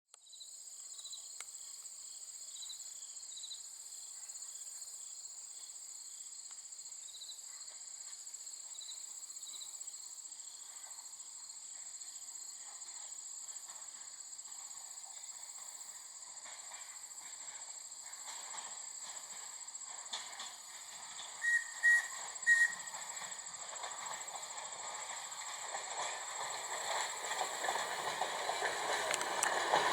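H.K. Porter 0-6-0T steam tank locomotive approaching, its running noise growing steadily louder over the last ten seconds, with three short whistle toots a little past twenty seconds in. A steady high-pitched drone runs underneath, with light chirps in the first ten seconds.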